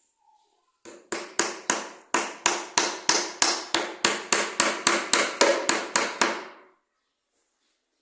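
Hammer striking about eighteen times in quick succession, roughly three blows a second, each with a short ringing decay.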